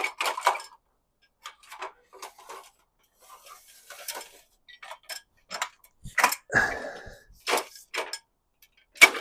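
Irregular sharp clicks, clinks and knocks of hard objects, with louder knocks about six, seven and a half and nine seconds in.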